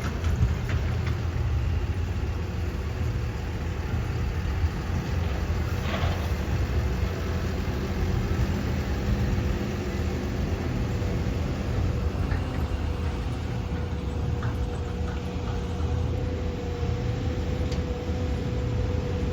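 Heavy diesel engine of a backhoe loader or tractor running steadily: a low rumble with a faint steady whine over it.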